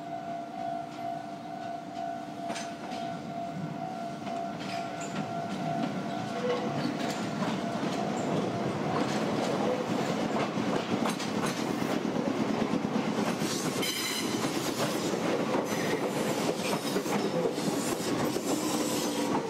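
A Meitetsu Gamagori Line train approaching, its rumble and wheel clatter growing louder from about a quarter of the way in, with a brief high squeal about two-thirds through and a falling whine near the end. At the start a steady warning tone fades away.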